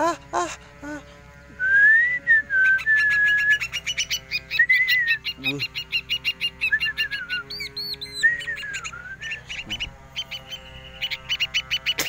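Small caged songbird calling while it is grabbed by hand: rapid runs of short, sharp chirps mixed with a few whistled, gliding notes.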